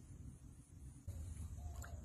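Low wind rumble on the microphone, louder from about a second in, with faint short bird calls and a steady thin high whine of insects or electronics.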